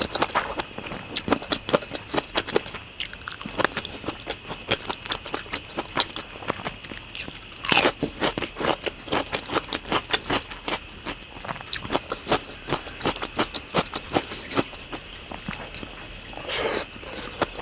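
Close-up eating sounds: irregular wet chewing and mouth clicks, a little louder about 8 s in and again near the end, over a steady high pulsing insect trill, likely crickets.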